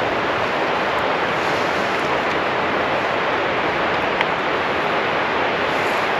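Steady, even rushing noise, with one sharp click about four seconds in.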